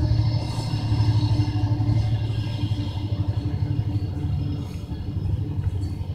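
Freight train passing close by: the diesel locomotive's engine rumbling steadily as it pulls away, with the tank cars rolling along the rails behind it. The rumble eases slightly about two-thirds of the way through.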